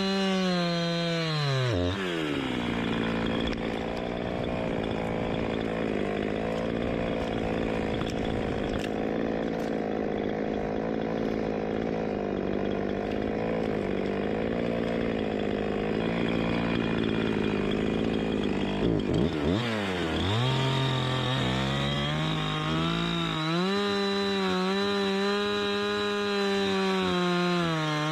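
Two-stroke chainsaw running at full throttle. About two seconds in its pitch drops as the chain bogs into a cut through wood, and it holds there for some fifteen seconds. It then dips briefly and revs back up to a high, steady pitch.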